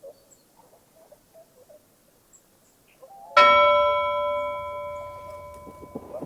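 A bell struck once about halfway in, ringing out with several clear overtones and fading over about two and a half seconds.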